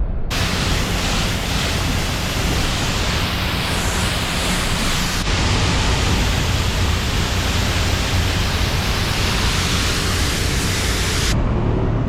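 A steady spray of water hosing down a vehicle. It starts suddenly and cuts off about eleven seconds in, over a low steady hum.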